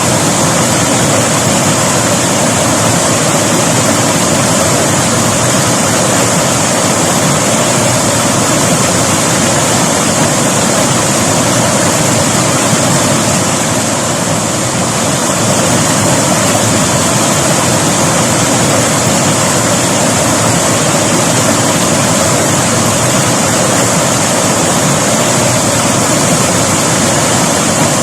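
Steady rushing of a flowing river, an unbroken wash of water noise that dips slightly about halfway through.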